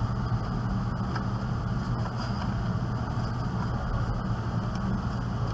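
Steady low machine hum running without change, with a few faint small clicks.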